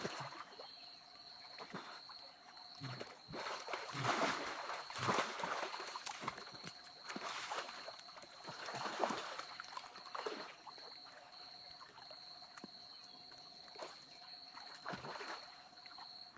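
Water sloshing and splashing in irregular surges as a person bathes in a rocky stream pool, with a thin steady high-pitched whine underneath.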